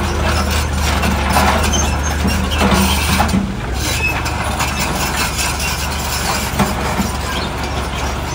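Heavy diesel construction machinery running steadily under load, with repeated metallic clanking and rattling. The engine note drops a little about three and a half seconds in.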